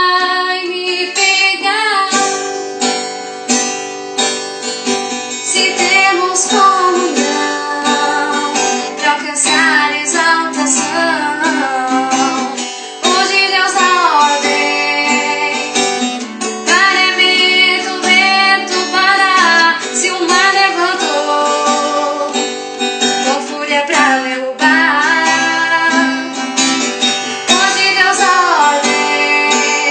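Music: a woman singing a hymn over a strummed string accompaniment.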